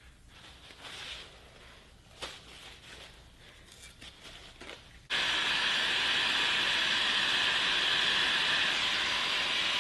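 A few faint clicks and light handling noises, then about five seconds in a loud, steady hissing noise starts abruptly and keeps going.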